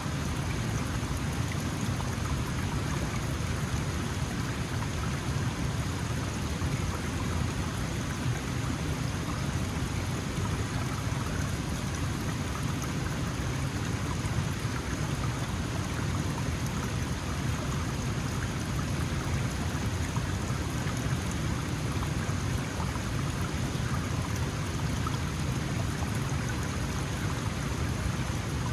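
Small mountain stream flowing steadily over rocks, a constant even rush of water with a strong low rumble.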